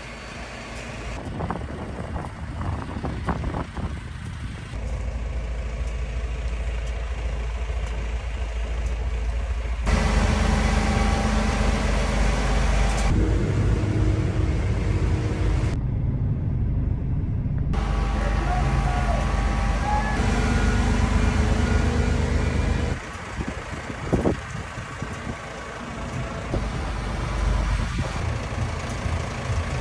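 Garbage truck engines running at low revs, in a series of clips cut together, with a few knocks and clanks from the truck at work.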